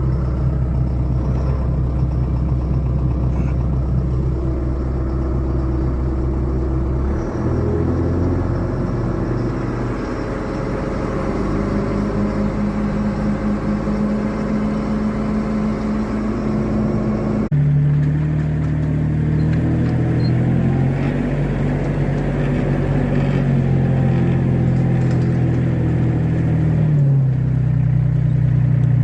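Farm tractor engine running steadily, its pitch stepping between several steady levels as the revs change, with an abrupt change about two-thirds of the way through.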